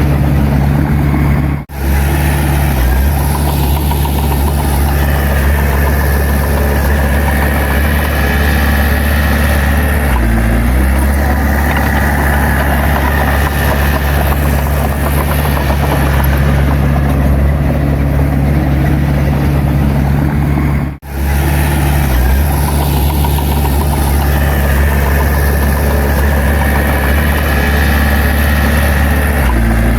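Heavy diesel engine of a bulldozer running steadily, with a strong low drone. The sound drops out briefly twice, once about two seconds in and again about two-thirds of the way through.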